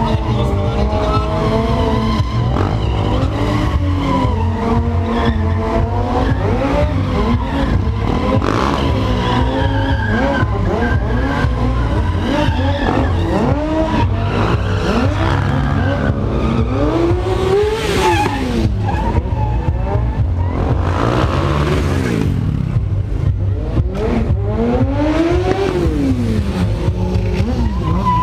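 A stunt motorcycle's engine revved up and down over and over, its pitch climbing and falling in quick swoops. About two-thirds of the way in there are two bursts of hissing tyre noise, like skidding rear-wheel spins.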